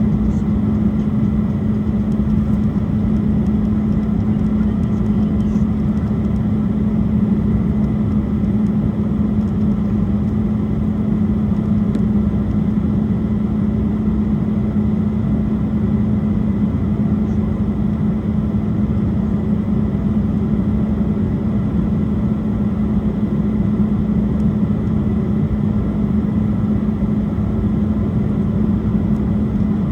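Steady cabin noise of an Embraer E175 airliner in flight: a constant drone of its turbofan engines and airflow with a strong low hum, plus a faint steady high whine.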